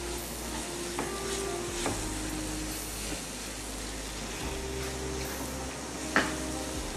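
Grated carrot and semolina frying in ghee with a steady sizzle as a wooden spatula stirs and presses it around a non-stick wok, knocking against the pan a few times, loudest about six seconds in. The carrot is giving up its water into the hot ghee.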